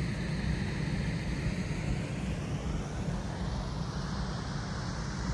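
Steady rushing of river water pouring through a rocky gorge pool.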